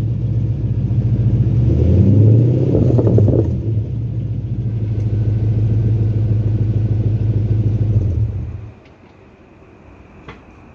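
Holden VZ SS's 5.7-litre LS1 V8 running through a full dual exhaust with 4-1 headers, 200-cell cats and twin 2.5-inch pipes with hotdog mufflers, idling with a deep rumble. It is revved once and falls back about two seconds in, idles on, then stops shortly before the end.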